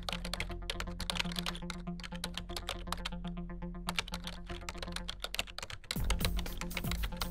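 Fast computer keyboard typing in irregular runs of key clicks, over background music; heavier low notes come into the music near the end.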